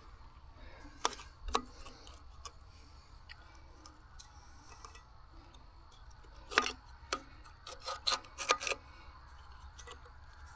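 Scattered light clicks and knocks from handling steel parts and tools, with a small cluster about six to nine seconds in, over a faint low hum.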